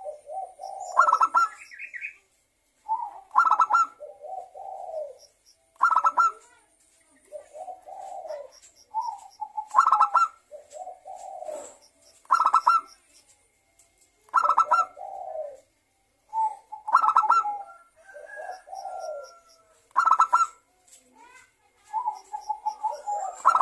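Zebra dove (perkutut) cooing its repeated song about every two and a half seconds. Each phrase is a short higher coo, a quick stuttering rattle, then a lower trailing coo.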